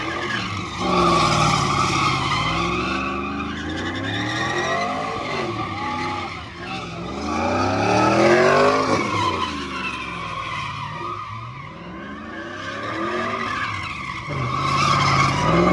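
Truck engine revving up and falling back in repeated waves while its tyres spin and squeal on the pavement: a burnout.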